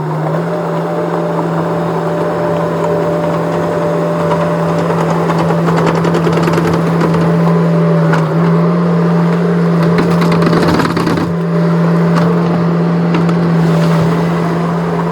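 Skid steer engine running steadily at one pitch. Over it, from about five seconds in until near the end, come crackling and scraping from gravel being pushed and spread.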